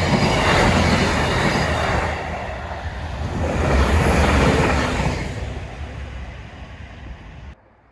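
A train passing close by: a loud rumble and rush that swells twice, then stops abruptly near the end.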